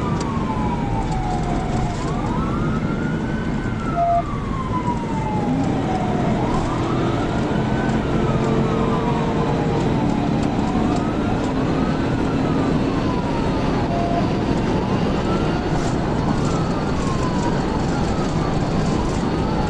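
Police cruiser siren in wail mode, sliding slowly up and down in pitch every four to five seconds, over loud steady road and engine noise from a car at highway speed in pursuit.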